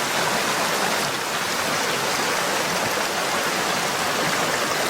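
Steady rush of river water flowing, a loud even hiss with no breaks.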